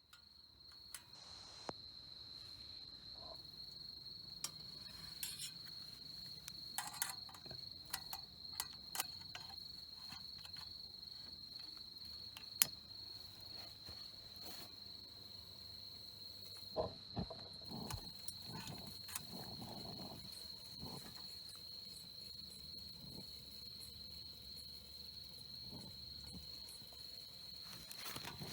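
Autumn crickets chirring in one unbroken, steady high-pitched trill, with scattered light clicks and knocks over it, the sharpest about halfway through.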